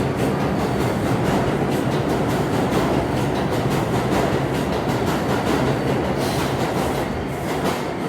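NYC R142A subway train running along the track: a steady rumble with the wheels clicking over rail joints several times a second.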